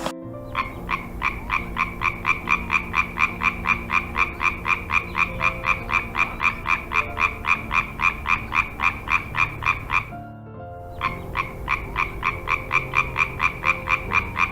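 A frog calling in a rapid, even series of short croaks, about four a second, with a brief pause about ten seconds in before the croaking starts again. Faint steady low tones lie underneath.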